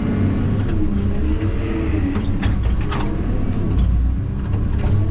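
Heavy logging machine's diesel engine and hydraulics working under load, with a wavering whine and a few sharp knocks and creaks about halfway through.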